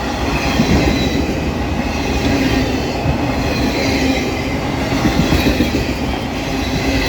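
A freight train of empty autorack cars rolling past close by: steady rumble of steel wheels on the rails with rhythmic clatter, and a faint high squeal from the wheels.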